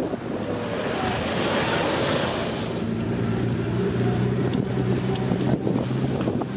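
Classic cars driving slowly past: an air-cooled Porsche 911 passes close, then a classic Mini's engine runs steadily at low revs as it moves off.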